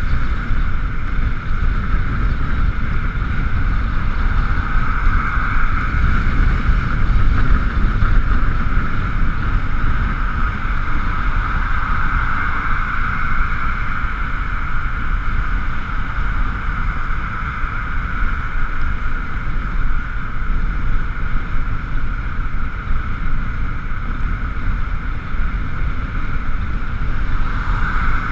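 Ride noise from an Ekoway ML5000 electric scooter in the rain: heavy wind rumble on the camera microphone with a steady high whine, likely the electric drive, that swells and eases slightly with speed.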